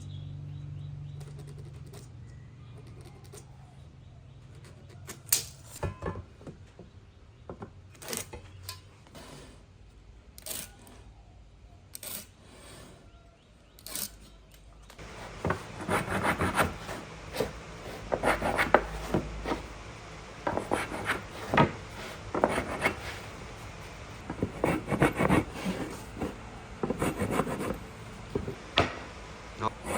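Wood being worked with hand tools: scattered knocks and taps, then from about halfway a run of quick, repeated rasping strokes on wood.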